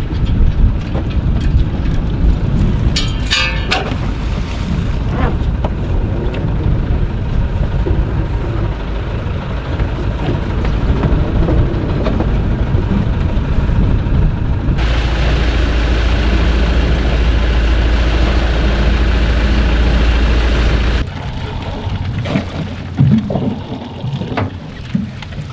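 Heavy wind buffeting the microphone on a small boat, a deep, uneven rumble with some splashing and knocking. About 15 s in it cuts abruptly to an even louder, steadier wind roar, which stops just as abruptly about 21 s in.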